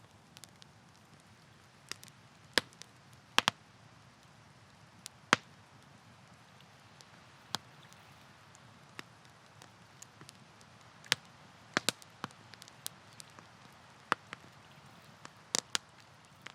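Wood campfire crackling, with sharp irregular pops and snaps from the burning logs, a dozen or so loud ones scattered through, over a faint steady hiss.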